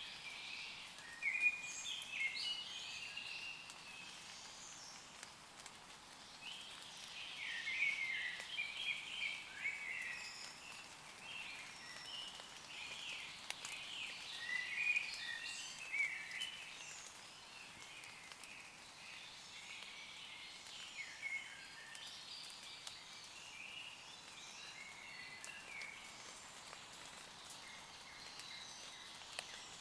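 Woodland birds singing in short, high chirping phrases that come in clusters, over light rain pattering on leaves with scattered drip ticks.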